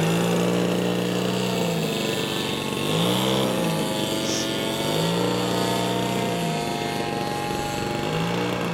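RC model airplane in flight, its motor and propeller buzzing steadily, the pitch swelling and dropping again every two to three seconds.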